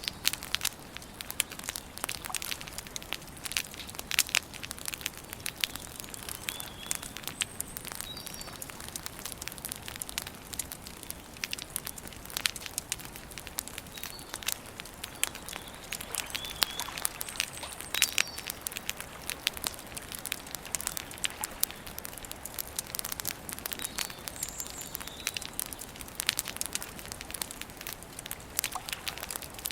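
Campfire crackling and popping steadily, with irregular sharp snaps of burning wood. A few short, high bird chirps come through now and then.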